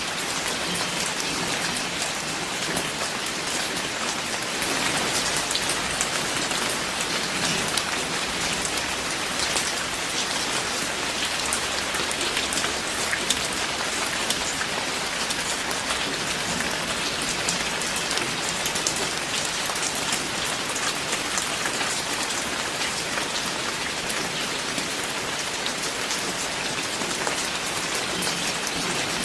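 Steady rainfall: a dense, even patter of raindrops hitting a surface, swelling slightly about five seconds in.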